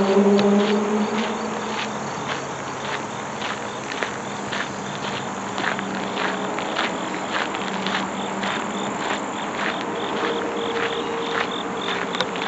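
Insects chirping outdoors, with a steady run of short scraping pulses about two or three a second and a thin high chirr. A low hum fades out over the first couple of seconds.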